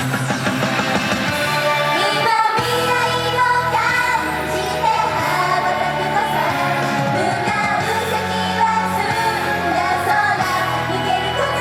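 Live J-pop idol performance: women's voices singing over a loud pop-rock backing with drums and guitar.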